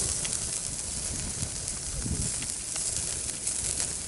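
Food sizzling on a grill over a wood fire, with scattered small crackles.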